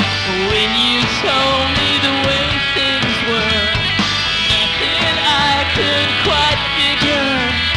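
Live rock band playing a song: a pitched melody line bending and wavering over a steady bass and drum pulse.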